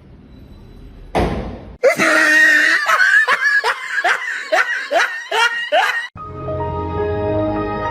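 A short rush of noise, then someone laughing hard in a quick run of repeated syllables that each fall in pitch. About six seconds in, the laughter stops abruptly and background music with held notes begins.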